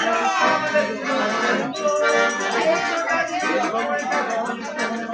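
Accordion music over a fast, even ticking of light percussion.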